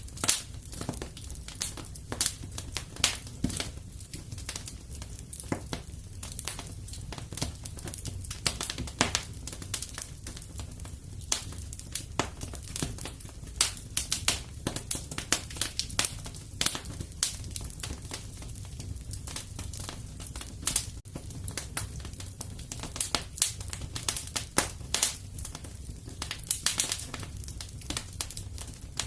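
Fireplace fire crackling: irregular sharp pops and snaps, several a second and of varying strength, over a steady low rumble.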